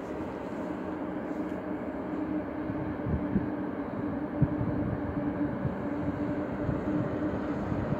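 Electric locomotive hauling a train slowly through the station, with a steady electrical hum. From about three seconds in, the wheels knock irregularly over rail joints and points, two knocks standing out.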